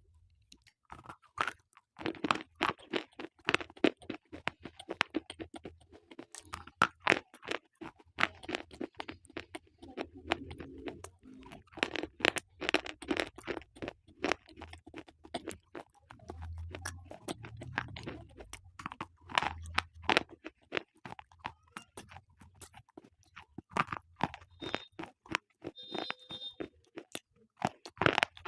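Slate pencils being bitten and chewed close to the microphone: dense, irregular crackling crunches with short pauses between bites.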